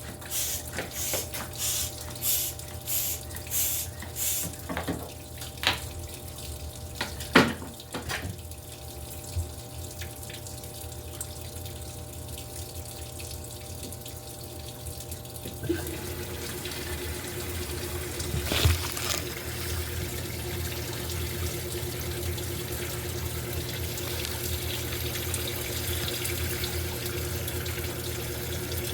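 Electrolux LTE08 top-loading washing machine at work: water splashing in rhythmic surges for the first few seconds, then, about sixteen seconds in, a steady rush of water with a constant hum begins.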